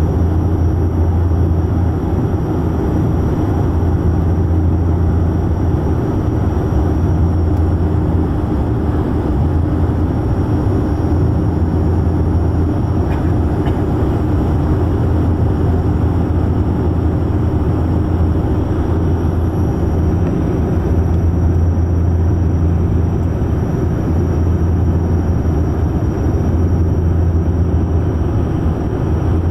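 Aircraft engine noise heard from inside the cabin: a loud, steady low drone that does not change.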